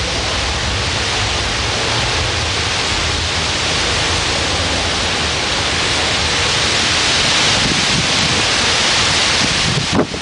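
Squall-line windstorm: a steady, loud rushing of strong wind. It dips briefly near the end.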